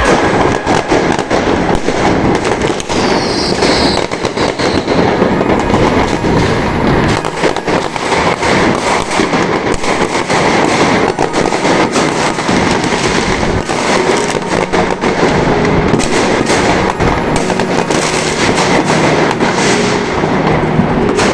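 Fireworks and firecrackers going off densely: a continuous barrage of bangs and crackles, with a brief falling whistle about three seconds in.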